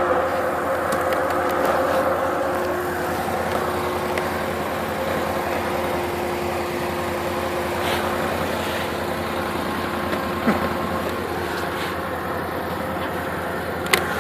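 Tracked ATV's engine running steadily at an even pace, with a faint steady tone that drops out about twelve seconds in and a couple of brief knocks near the end.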